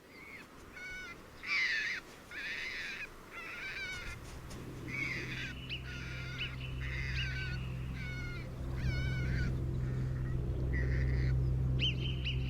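Alpine marmots giving a rapid series of short, high alarm calls, about two a second. A low steady drone of background music comes in about four seconds in.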